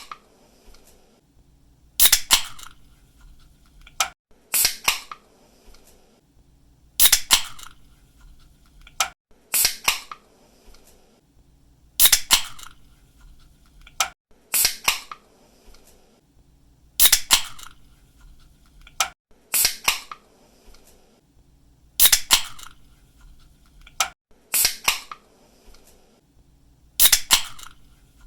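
Aluminium drink can being cracked open again and again: a sharp pull-tab click followed by a short hiss, repeating evenly about every two and a half seconds, eleven times.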